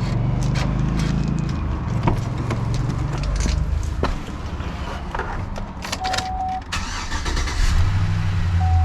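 Cold start of a 2006 GMC Sierra 1500 pickup: clicks and key jangling, then the engine catches near the end and runs louder at idle. A steady electronic chime tone sounds briefly, then again as the engine runs.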